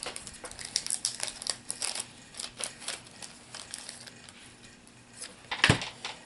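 Plastic packaging crinkling and light clicks of small plastic miniatures being handled, with one loud knock near the end as something is set down on the table.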